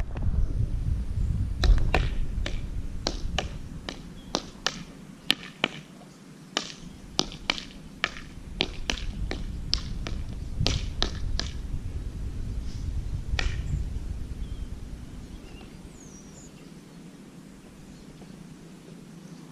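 Irregular sharp clicks and taps, a few a second at their busiest, over a low rumble of wind on the microphone that fades out after a few seconds.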